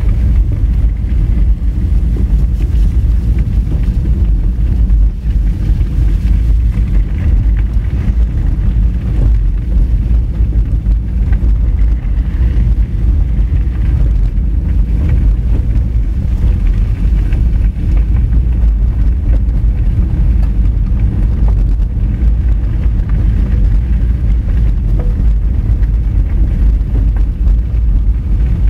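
Honda Fit driving on a rough gravel forest road: a steady low rumble of tyres on dirt and stones and the running engine.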